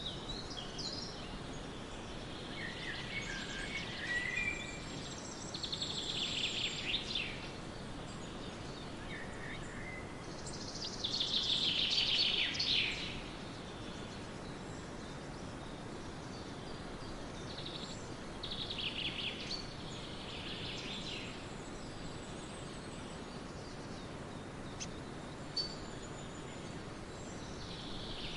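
Birds singing over a steady background hiss, with several bursts of chirps and trills, the loudest a few seconds short of the middle.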